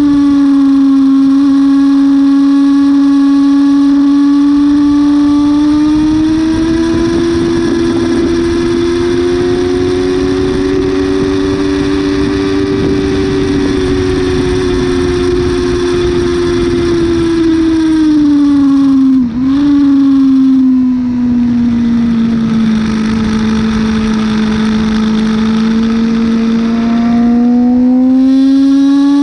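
Yamaha R6 inline-four sport-bike engine under way at track pace in third gear, its pitch climbing slowly as speed builds. The pitch then falls under braking, with a quick sharp dip about two-thirds of the way through as it shifts down to second gear. It rises again near the end as the bike accelerates, with a steady rush of wind over the microphone throughout.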